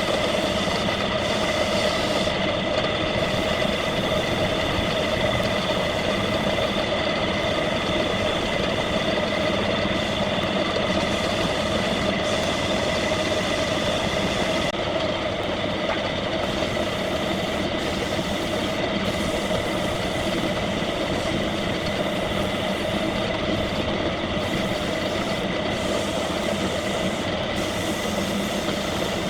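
Wood lathe running steadily, with a constant whine at several fixed pitches over a rushing noise.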